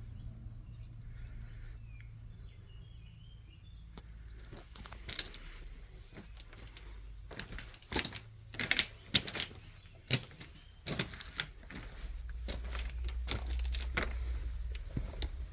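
Irregular sharp clicks and knocks, loudest in the middle, over a low steady rumble; a few faint chirps come in the first seconds.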